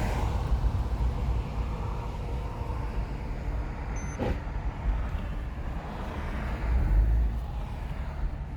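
Porsche 997 flat-six and tyre noise heard from inside the cabin while cruising at highway speed: a steady low rumble. A short high beep and a knock come a little after four seconds in.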